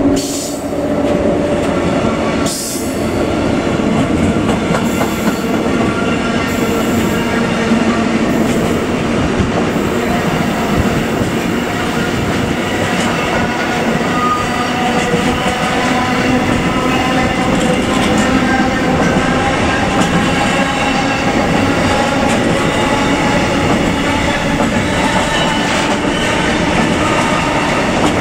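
Container freight wagons rolling past close by: a steady loud rumble of steel wheels on rail with a continuous squeal of several tones over it. A sharp knock sounds near the start and again about two and a half seconds in.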